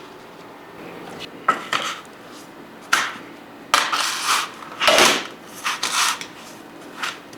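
Panko breadcrumbs crunching and rustling in short, irregular bursts as a raw chicken breast is pressed down and turned in them by hand, with light knocks against the dish.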